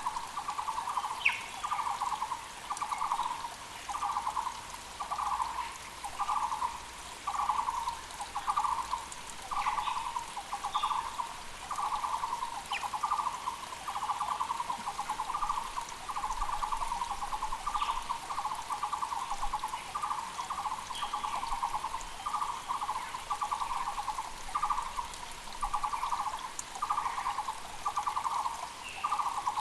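Taiwan barbet (Muller's barbet) calling a long, steady series of repeated low notes, about one and a half a second. Faint short chirps from other birds sound now and then over the hiss of a mountain creek.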